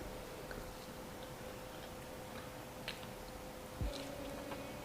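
Quiet room tone with a faint steady hum and a couple of small clicks, one about three seconds in and a slightly louder one near four seconds.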